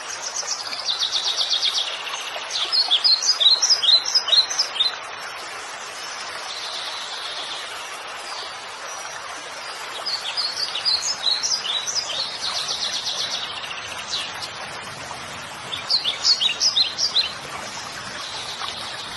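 Songbirds singing: high, fast trills and clusters of quick chirps, coming in three bouts, over a steady background hiss.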